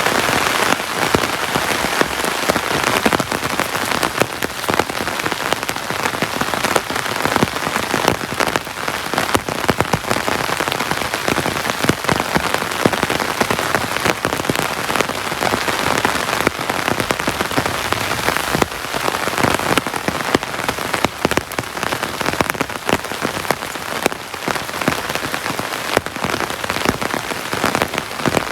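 Heavy rain falling steadily: a dense hiss of rain with many sharp hits of individual drops.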